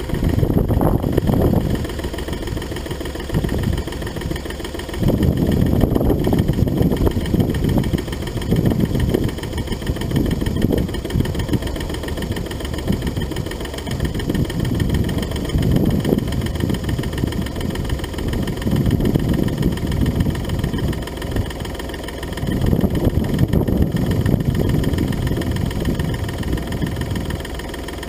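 2006 Smart Fortwo's three-cylinder turbodiesel idling roughly just after a cold start. The running is uneven, swelling louder and dropping back every few seconds.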